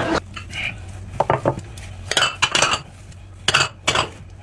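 Cutlery clinking and scraping against dishes, a string of short sharp knocks spread through the moment.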